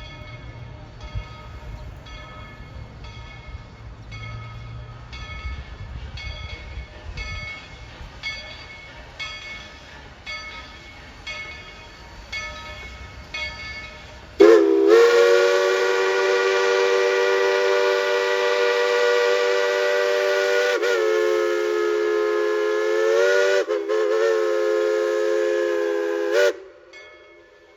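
Steam locomotive of a narrow-gauge train: its bell rings in steady, even strokes over a low running rumble, then its chime whistle sounds one long, loud multi-note blast of about twelve seconds, wavering twice before it stops.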